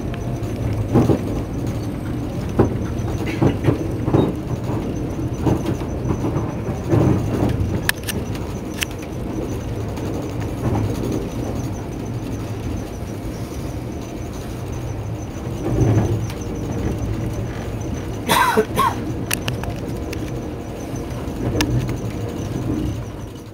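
Via Rail passenger train running, heard from inside the coach: a steady low rumble with scattered knocks and clatter from the wheels on the track. A brief louder, sharper noise comes about eighteen seconds in.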